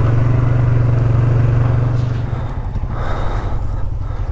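ATV engine running steadily, then easing off about two seconds in and dropping to a lower, pulsing idle as the machine slows.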